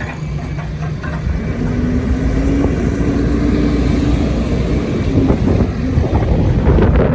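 A vehicle engine running with a steady low rumble, its hum rising slightly in pitch through the middle.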